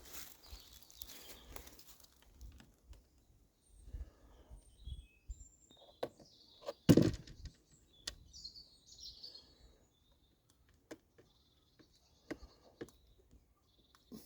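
Small birds chirping now and then, with scattered sharp clicks and one loud knock about seven seconds in.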